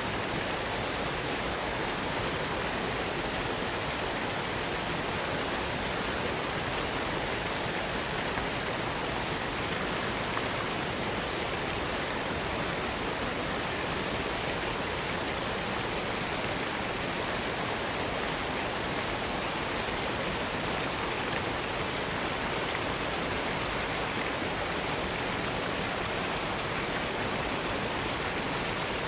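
Waterfall, a steady, unchanging rush of falling water.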